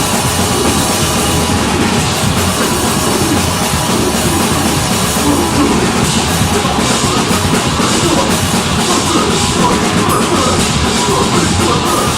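A deathgrind band playing live: heavily distorted guitars and bass with fast, busy drumming, loud and dense without a break.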